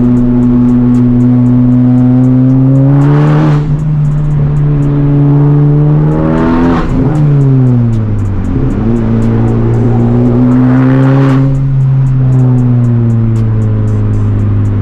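Turbocharged 2.0-litre four-cylinder of a Honda Civic Type R (FL5), with a catless downpipe and resonator-delete exhaust, pulling hard under load. Its pitch climbs, then changes sharply at gear shifts, with a brief rush of noise at each of three shifts.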